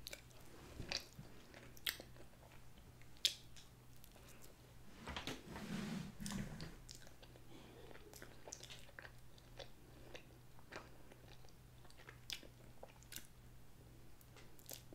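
Faint close-up chewing and biting of a breaded chicken nugget, with scattered small crunches and mouth clicks, a little louder for a moment about five seconds in.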